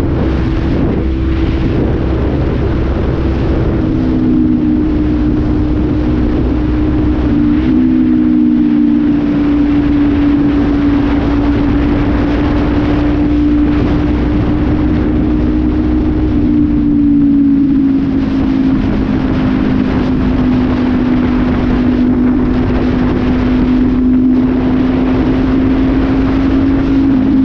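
Honda CB500F's parallel-twin engine, running without an air filter through an aftermarket Full Pro slip-on exhaust, holding steady cruising revs on the road. Its pitch eases slightly lower past the middle.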